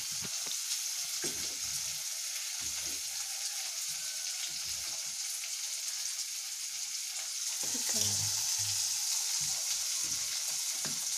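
Onions and tomatoes frying in hot oil in a pan, sizzling steadily, with a few soft low knocks underneath.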